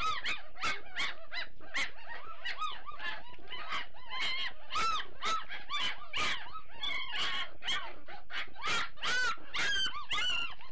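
A litter of young puppies squealing and whining during feeding, many short rising-and-falling cries overlapping several times a second without a break.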